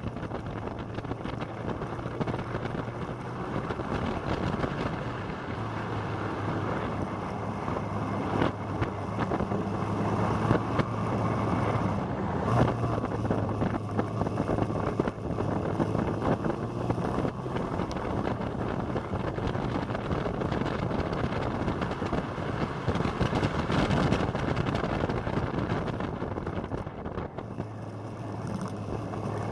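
Motorcycle engine running steadily while riding, with wind noise on the microphone. The engine note shifts in pitch a little now and then.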